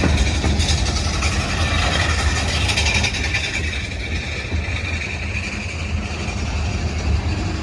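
Diesel-hauled freight train passing slowly, with a steady low diesel engine rumble and the rolling noise of the wheels on the rails.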